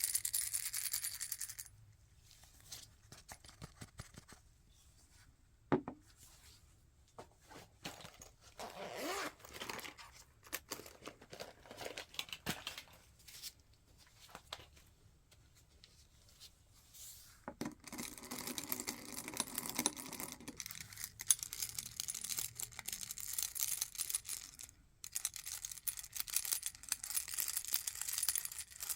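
Close-up rustling and tearing of packaging, in stretches, with scattered sharp clicks and small taps between them.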